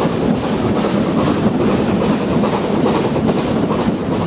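Running noise of a steam-hauled passenger train, heard from an open carriage window: the wheels on the track give a steady, loud rumble.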